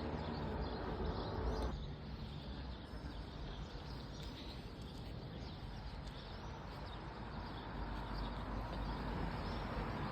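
Outdoor street ambience: faint chirps of small birds over a low rumble, with a steady hum that cuts off abruptly about two seconds in.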